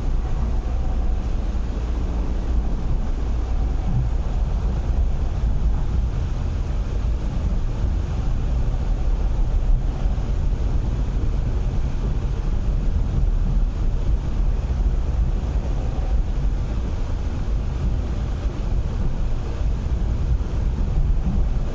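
Steady low running rumble of an MTR East Rail Line R-train, heard from inside the carriage while it travels.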